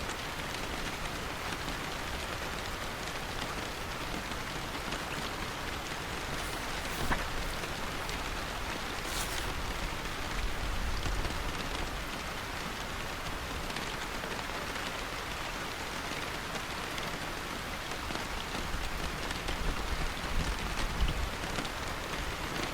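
Steady rain falling, an even hiss with a small tick about seven seconds in, a brief sharp hiss about nine seconds in, and a few low bumps near the end.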